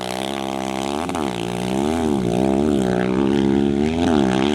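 Single-cylinder-style off-road racing engine running hard, its revs rising and falling four or five times as the rider works the throttle, then cut off suddenly at the end.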